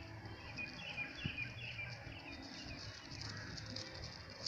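Outdoor ambience: a small bird chirping a quick series of short notes during the first couple of seconds, over a steady high insect drone.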